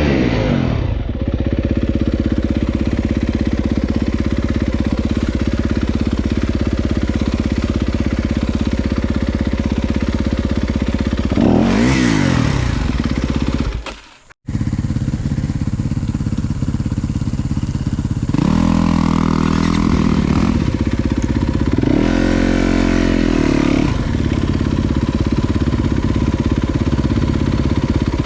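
Dirt bike engine running steadily on the trail, revved up and back down several times: once at the start, again about twelve seconds in, and twice more near the two-thirds mark. The sound cuts out for a moment just after the middle.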